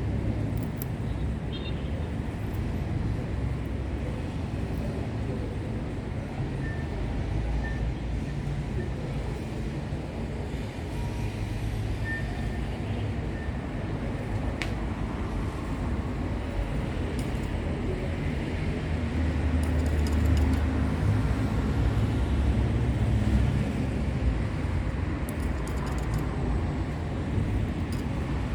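Steady low rumble of background noise, like distant road traffic.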